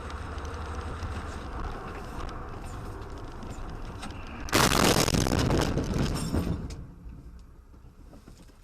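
Car on the road with steady road and engine noise. About four and a half seconds in, a sudden loud, rough noise cuts in and fades away over about two seconds.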